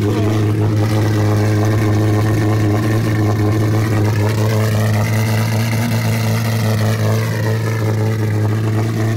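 Lamborghini Aventador SV's 6.5-litre V12 idling loudly and steadily just after its first start following the rebuild. A higher whine rises and falls over it midway through.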